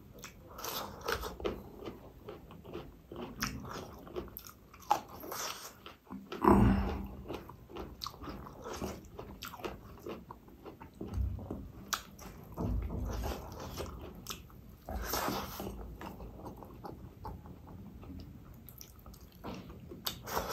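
Close-up eating sounds: crunchy bites of fresh cucumber and chewing of rice eaten by hand, with many small wet mouth clicks. The loudest crunch comes about six seconds in, and another about fifteen seconds in.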